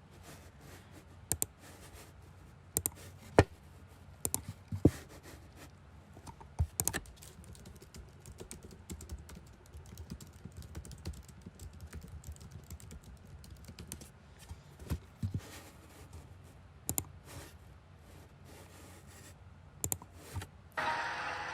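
Irregular sharp clicks and taps, often in pairs or small clusters about a second apart, over a low steady hum. Near the end a louder hissing noise starts.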